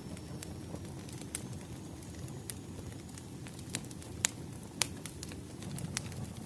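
Wood fire crackling: a steady low rush with scattered sharp pops and snaps, the two loudest a little past the middle.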